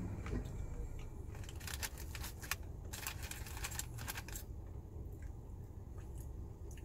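Close-up eating of crispy fried chicken: clusters of short crackly crunches and mouth sounds from chewing, over a faint low steady hum.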